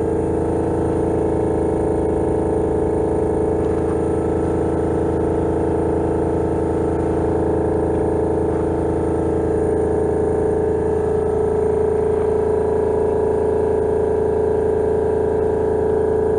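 Honda Lead 100 scooter's two-stroke engine running steadily at a constant speed, getting slightly louder about two-thirds of the way in. The owner suspects the abnormal noise comes from a crankshaft bearing.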